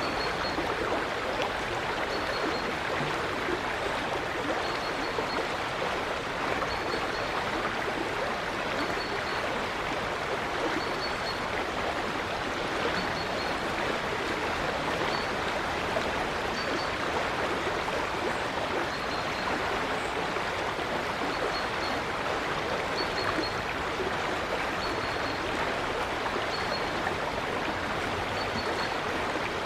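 River water flowing steadily. Over it a bird repeats a short, high call about every two seconds.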